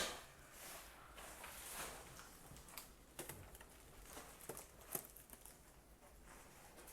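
Faint, scattered small clicks and rustles of things being handled in a small room.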